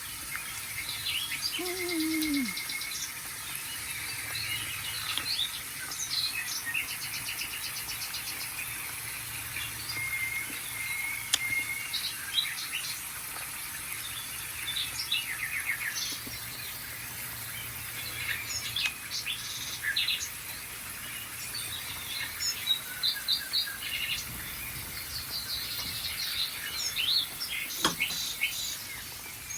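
A bird-sounds recording playing on a TV: several birds singing and chirping at once, with rapid trills, quick repeated chirps and a few longer whistled notes.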